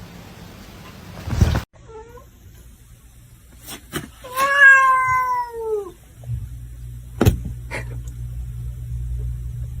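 A cat meowing: one long, drawn-out meow about four seconds in that rises slightly and then falls away, after a faint short call near two seconds. A few sharp knocks come before and after it.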